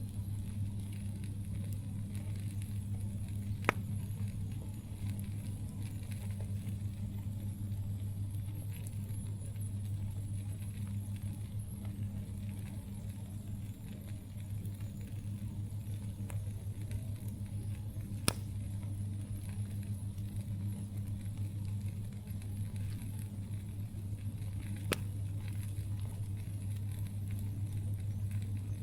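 Campfire burning with a steady low rumble, broken by three sharp pops of the burning wood: one about 4 seconds in, one about 18 seconds in and one near 25 seconds.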